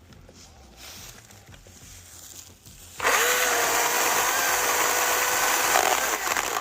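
Husqvarna 225i battery chainsaw starting suddenly about three seconds in: its electric motor spins up to a steady high whine and runs for about three seconds, then eases off near the end.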